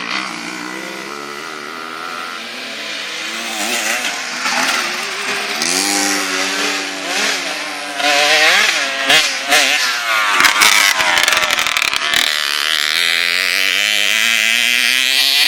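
Small two-stroke kids' dirt bike engines revving, their pitch climbing and dropping again and again as the bikes ride the track. A run of sharp crackles sounds about two-thirds of the way in.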